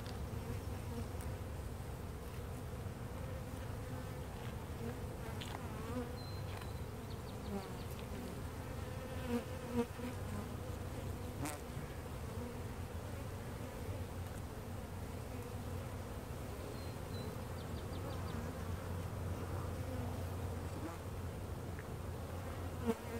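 A large colony of honey bees buzzing steadily, a dense low hum, with a few brief knocks a little before the middle.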